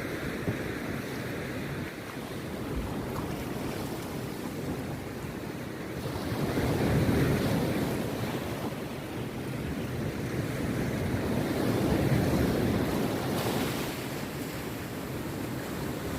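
Rough sea surf breaking and washing on the beach, a continuous rush that swells louder twice, about seven and twelve seconds in.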